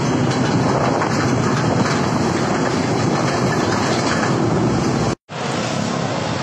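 Loud, steady wind rush on the microphone mixed with road vehicle noise. The sound drops out for a split second about five seconds in.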